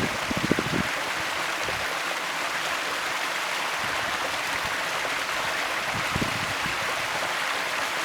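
Rushing stream water, a steady even hiss, with a few brief low thumps about half a second in and again around six seconds in.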